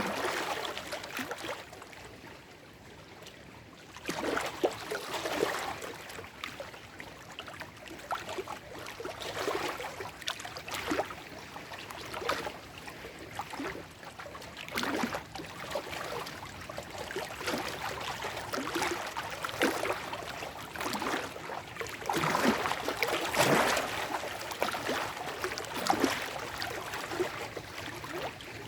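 Small lake waves lapping and sloshing over shoreline rocks, with irregular splashes and gurgles every second or so. There is a quieter lull a few seconds in and a louder run of splashes near the end.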